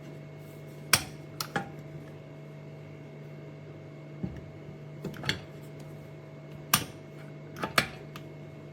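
Pots, pans or lids knocking and clinking against one another as they are handled, about nine sharp knocks in short clusters, over a steady electrical hum.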